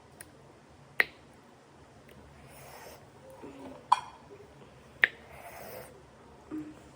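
Close-up eating sounds: three sharp clicks or smacks, about a second in, near four seconds and near five seconds, with softer mouth and rustling noise between them.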